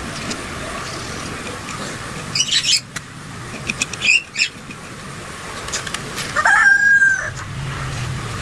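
A rooster crowing once, a pitched call of about a second near the end, over a steady background hiss. A few short, sharp sounds come earlier, around the middle.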